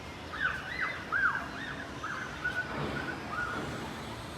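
Birds calling: a run of short rising-and-falling calls, about two a second, loudest in the first couple of seconds and fading out past the middle.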